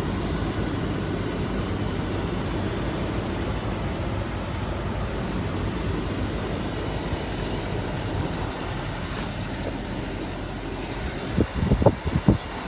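2016 Kia Sportage's four-cylinder engine idling steadily shortly after a cold start at 31 degrees. A few loud, short thumps come near the end.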